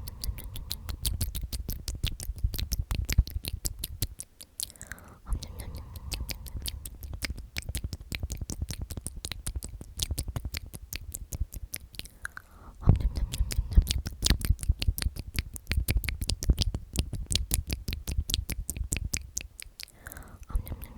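Close-miked ASMR mouth sounds: the whispered word "omnomnom" repeated, a dense run of quick wet lip and tongue clicks at several a second, with short lulls about four and twelve seconds in.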